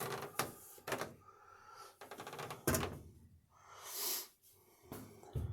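Spray bottle spritzing the socks once, a short hiss about four seconds in, among knocks and clatter from handling the socks and bottle.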